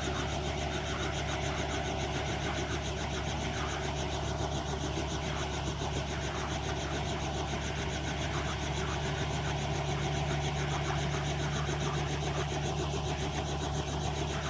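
Helicopter running: a steady, unbroken drone of engine and rotor.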